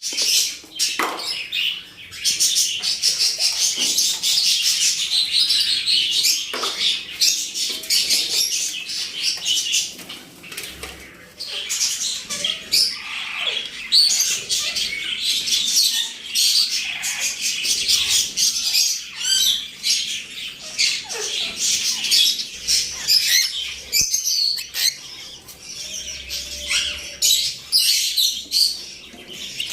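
Many birds chirping and twittering together almost without pause, with a brief lull about a third of the way in.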